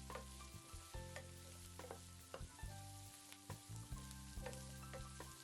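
Chopped onion, garlic and green chilies sizzling in hot oil in a pan, with the spoon clicking against the pan now and then as they are stirred.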